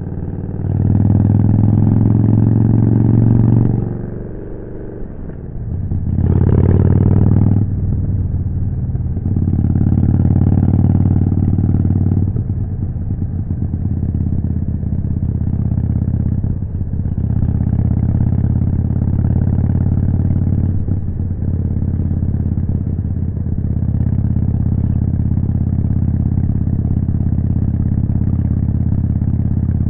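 Harley-Davidson Forty-Eight's air-cooled V-twin through a Jekill & Hyde exhaust, heard from the saddle: pulling hard for the first few seconds, easing off, surging again with a brief rushing noise about seven seconds in, then running steadily at cruising speed.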